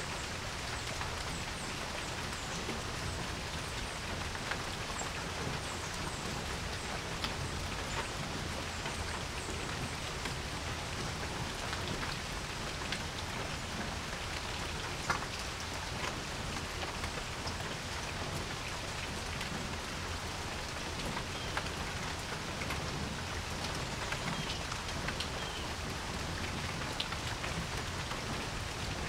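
Steady rain falling on a porch: a dense, even hiss with many scattered sharper drips, and one louder drop about halfway through.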